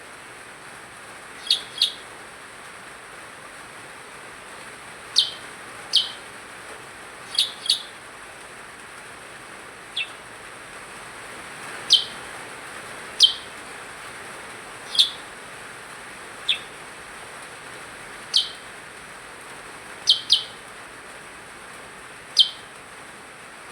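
Percang songbird calling actively (gacor): short, sharp chirps that fall in pitch, single or in quick pairs, every second or two, over a steady faint hiss.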